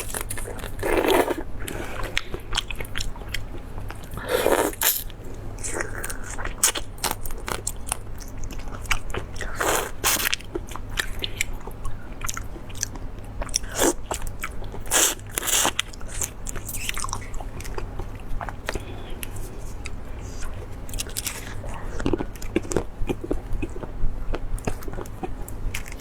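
Close-miked eating: repeated bites and crunches with chewing between them, irregular and of varying strength, over a steady low hum.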